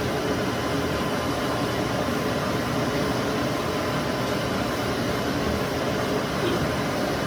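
Steady, unchanging drone of running machinery, an even noise with a faint hum under it.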